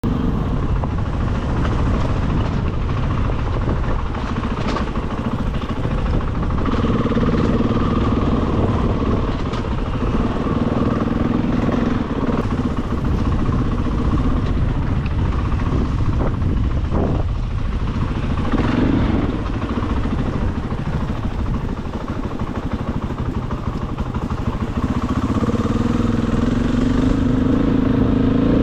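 KTM 500 EXC single-cylinder four-stroke dirt bike running under way, its engine note rising and falling with the throttle as it rides along.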